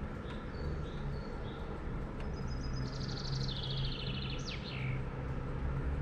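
A songbird singing: a few short high whistled notes, then a fast trilled phrase that ends in quick downward-sweeping notes. Under it runs a steady low rumble and hum, with the light hiss of rain.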